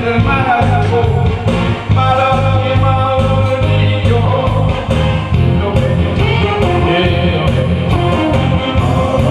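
A singer performing a Korean trot song over instrumental accompaniment with a steady bass line.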